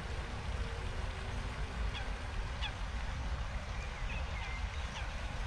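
Lakeside waterbirds giving short, sharp calls every second or so, over a steady low rumble.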